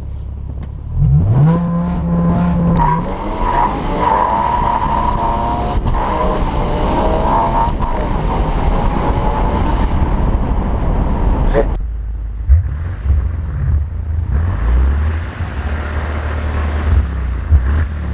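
BMW 6 Series car engine revving up and accelerating hard, its pitch climbing through the run under loud road and wind noise. Near two-thirds of the way in, this cuts suddenly to a low, steady exhaust rumble.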